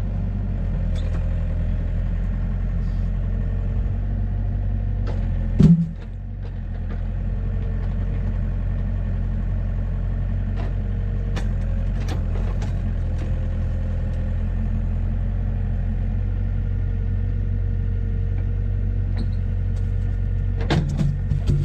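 A large engine idling steadily with a low rumble. A single loud knock sounds about six seconds in, and a few lighter clunks come near the end.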